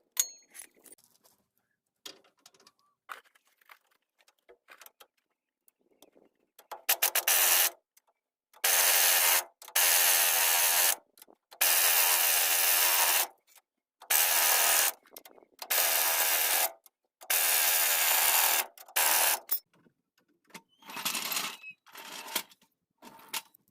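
A power tool run in a series of short bursts of one to two seconds each, with a few light clicks and knocks before the first burst.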